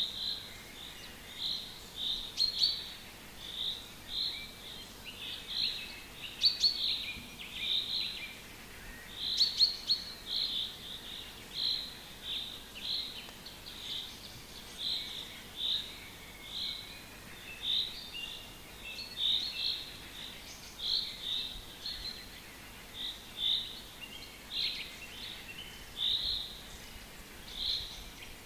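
Forest birds singing: a steady run of short, high chirps, about one or two a second, with a few sharper, higher notes mixed in.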